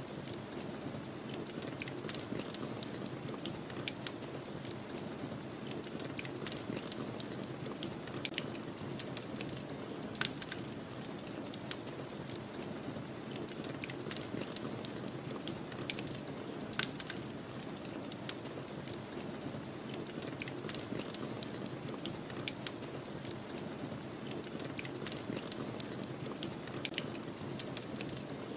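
Wood fire crackling, with frequent sharp pops and snaps, over a steady low rush of storm wind.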